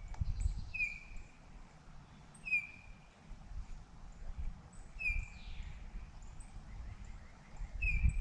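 A bird calling four times, each a short falling whistled note a couple of seconds apart, over gusts of wind rumbling on the microphone.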